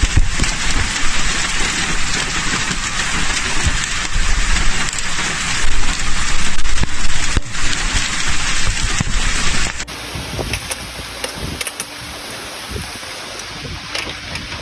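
Torrential rain pouring down in a storm, a dense loud hiss with wind rumbling on the microphone. About ten seconds in it cuts to a quieter steady rain with a few sharp clicks.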